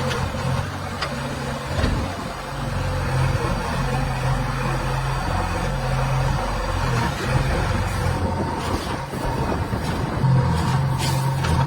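Heavy diesel machinery engine running steadily, with a few short knocks.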